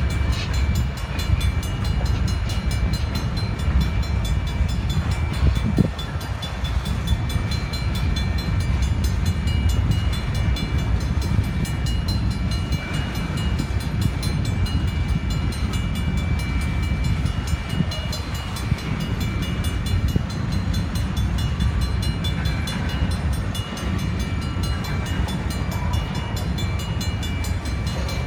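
Union Pacific freight train of tank cars and covered hoppers rolling past at a crossing: a steady low rumble of wheels on rail, with the crossing signal's bell ringing high over it.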